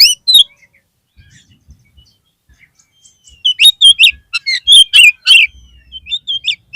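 Oriental magpie-robin (kacer) song: loud bursts of short whistled and harsh notes. A brief burst opens, then a pause of about three seconds, then a fast run of notes from about halfway through.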